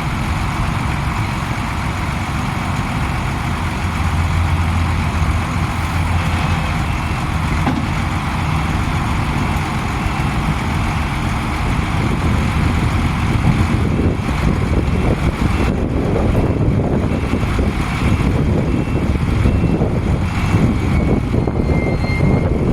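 1993 Ford FT900 dump truck's diesel engine idling steadily. A rougher, uneven rushing noise builds over it from about halfway through.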